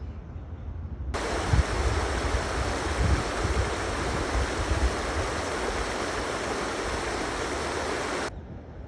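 Stream water rushing steadily, starting abruptly about a second in and cutting off abruptly near the end. A low rumble with a few thumps runs underneath.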